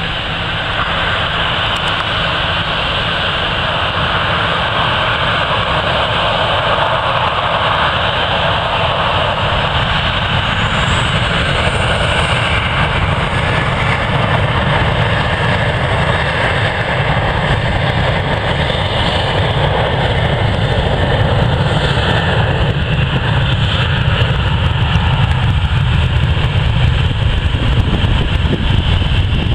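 Jet airliner engines, a loud steady rush with a deep rumble underneath; a high whine rises briefly about ten seconds in.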